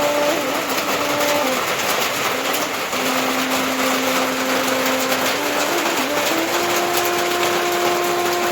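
Heavy rain falling steadily, with a slow melody of long held notes over it that changes pitch every second or two.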